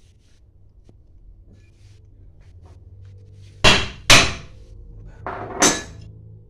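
Hammer blows on metal, tapping water booster pump parts into place: four sharp strikes in two pairs, the first pair loudest, after a few quiet seconds.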